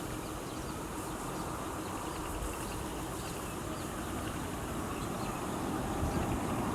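Low rumble of a distant vehicle that grows louder toward the end as it approaches, over rural outdoor ambience with faint, repeated high chirps.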